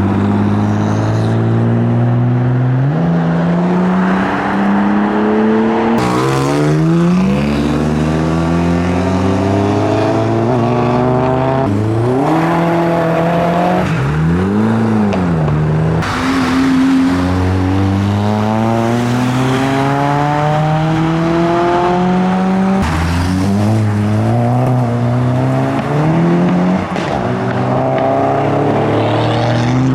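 Modified cars accelerating hard away one after another, each engine note climbing in pitch as it pulls through the gears, with a quick rev up and back down about halfway through.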